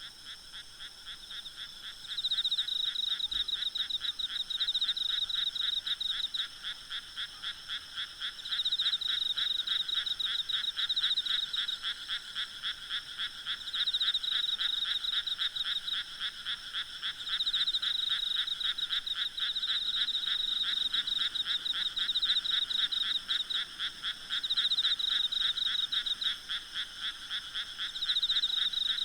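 A chorus of many frogs calling with rapid rattling croaks, swelling in bouts of a few seconds and easing between them, over a steady high insect trill.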